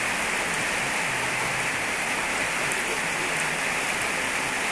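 Heavy rain pouring steadily onto a wet brick-paved parking lot: a dense, even hiss.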